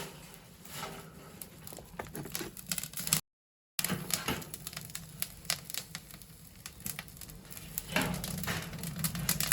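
Burning branches and wood scraps crackling and popping inside a Sanwa 120-type stainless-steel home incinerator, irregular sharp snaps over a steady low draught rumble. The sound drops out completely for about half a second a little past the three-second mark.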